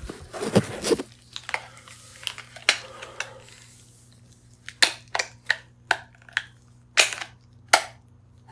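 Handling noise: crinkly rustling for the first few seconds, then about seven sharp clicks spread over three seconds, over a faint steady hum.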